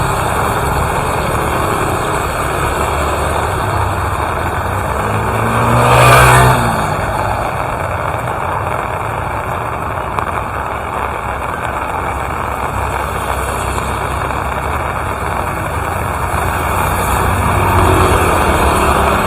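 Steady rain with a motor vehicle passing close by, its engine pitch bending as it goes past, loudest about six seconds in; another vehicle's engine grows louder near the end.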